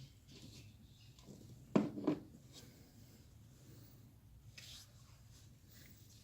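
Faint rubbing and handling noises of parts being worked by hand, with a short knock and a smaller second one about two seconds in.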